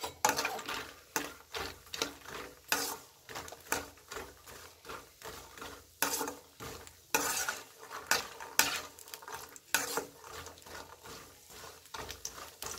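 Phool makhana (fox nuts) frying in ghee in an aluminium kadhai, with a faint sizzle, while a wire-mesh frying spoon stirs them, scraping and clinking against the pan about twice a second.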